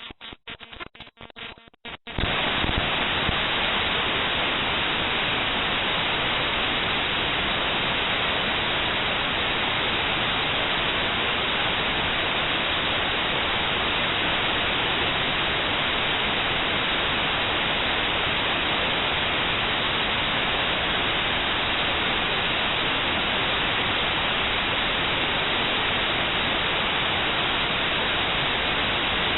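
Raw binary data of the mspaint.exe program file played as audio at quarter speed: about two seconds of choppy, stuttering bursts, then a sudden switch to steady, loud static hiss.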